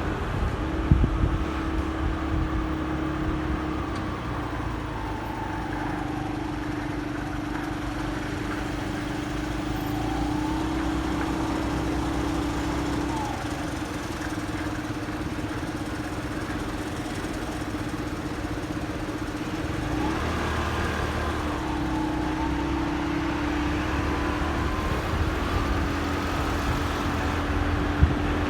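Motorcycle engine running with a steady hum whose pitch shifts slightly a few times, over low road and traffic rumble.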